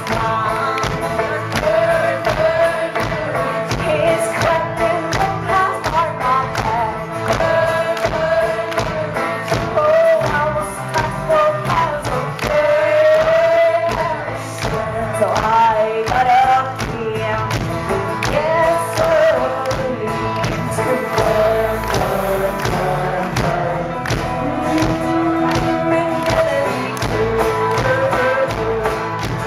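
A live band playing a song loud, with a melody wavering over a steady percussion beat.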